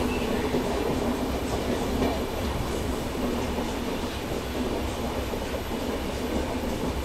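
Brindavan Express passenger train running, heard from on board a moving coach: a steady rumble of wheels on the track with faint scattered clicks.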